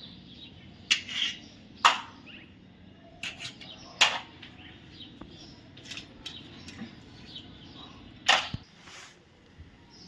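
Small toy cars being handled, clicking and knocking sharply a few times: about a second in, two seconds in, four seconds in, and once more near eight seconds.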